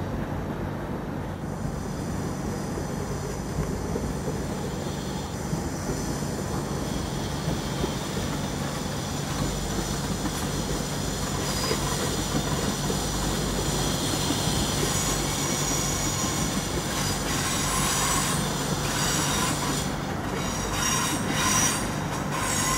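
A Swiss electric multiple unit, a Stadler FLIRT, rolling slowly along a station track with a steady rumble. High-pitched wheel squeal grows from about halfway through, and a few sharp clicks come near the end.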